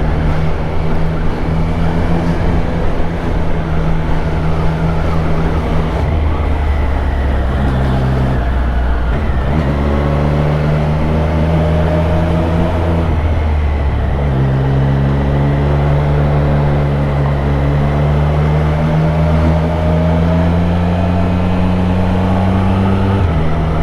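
Triumph Street Triple RS inline three-cylinder motorcycle engine running under way, heard from on the bike with wind rush. Its note shifts in pitch a few times, around 8, 10 and 14 seconds in, then climbs gradually as the bike pulls.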